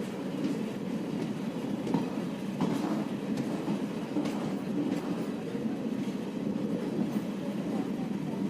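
Indian Railways passenger train, the Varanasi Intercity Express, running along the track, heard from aboard. A steady rumble with irregular clicks of the wheels passing over rail joints.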